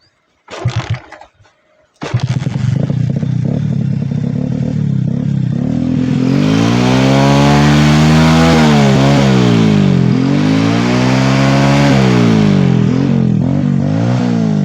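Motorcycle engine catching at about two seconds after a hard start, then revved up and down three times. The owner blamed the hard starting on water that got into the engine during washing.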